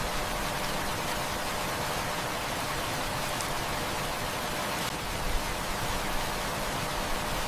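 Heavy rain falling steadily, a dense even hiss of many drops, with a few faint ticks scattered through it.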